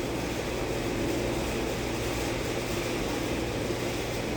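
A steady mechanical drone with a low hum, holding even throughout with no distinct strokes or knocks.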